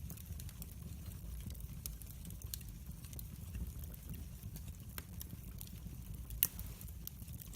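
Wood fire burning in a fireplace: a low steady rumble of flame with scattered sharp crackles and pops, the loudest pop about six and a half seconds in.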